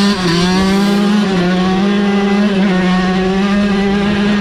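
Dirt bike engine running at high, steady revs, its pitch dipping briefly a few times.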